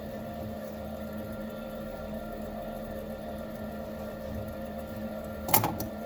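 Steady mechanical hum of a small electric motor or machine running, with one sharp click about five and a half seconds in.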